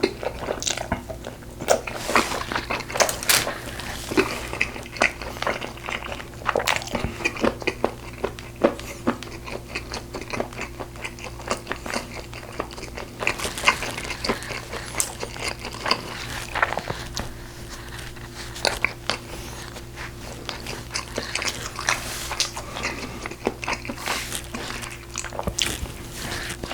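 Close-miked eating of braised pork ribs: biting and chewing, with many short wet clicks and crunches, over a steady low hum.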